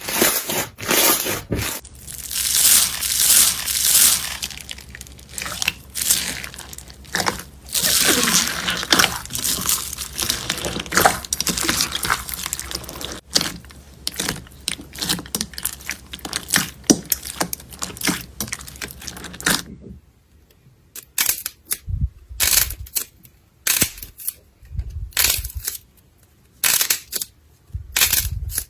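Slime being squeezed and worked by hand, making a dense run of crinkling, popping noises. About twenty seconds in, this gives way to separate short presses with quiet gaps between them.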